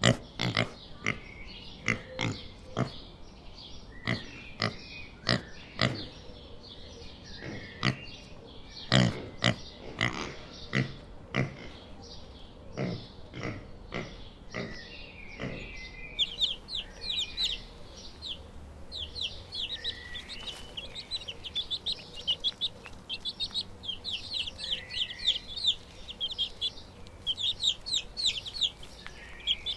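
Pigs grunting in short, sharp, irregular grunts for about the first half. Then, after a cut, small birds chirping in a rapid, continuous stream of short high notes.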